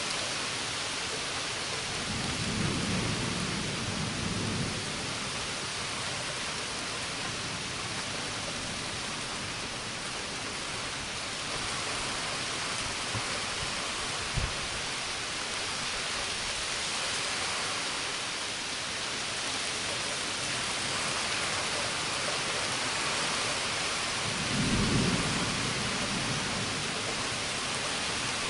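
Thunderstorm: steady heavy rain hiss with two low rolls of thunder, one a few seconds in and a louder one near the end. A single sharp tick comes about halfway through.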